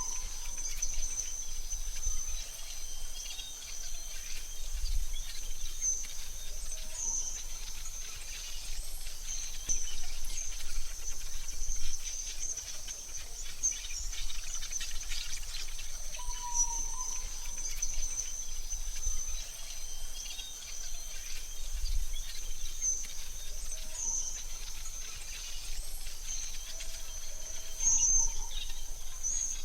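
Forest ambience: a steady, high-pitched insect trill runs throughout, with a few short bird chirps at scattered moments, over a faint low rumble.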